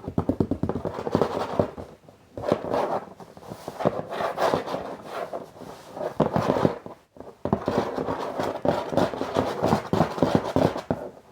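Rapid tapping and scratching on a box, in quick dense runs, with brief pauses about two seconds in and about seven seconds in, stopping near the end.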